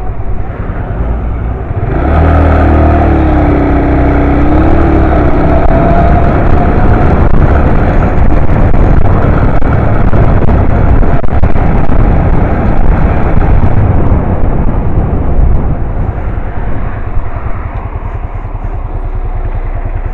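125 cc single-cylinder motorbike engine riding along. About two seconds in it gets louder, its pitch rising and wavering as it pulls away, then it runs on steadily under a rushing noise that eases off near the end.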